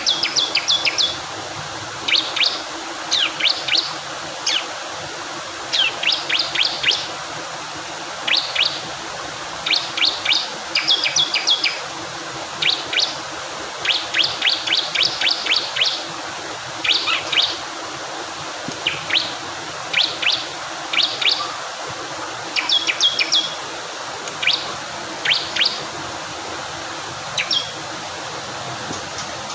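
Bar-winged prinia (ciblek kristal) singing: quick runs of three to six high chirps, repeated every second or two, over a steady rush of flowing water.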